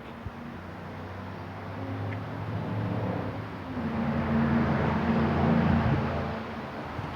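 A motor vehicle passing by: its engine hum and tyre noise build up, are loudest about four to six seconds in, then fade away.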